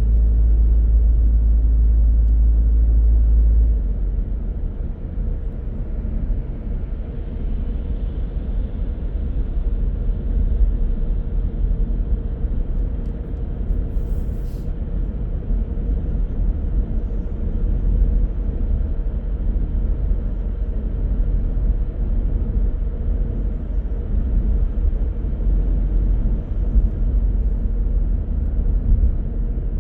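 Car driving noise: a steady low engine hum that gives way about four seconds in to an uneven rumble of road and tyre noise. There is a single short click at about the middle.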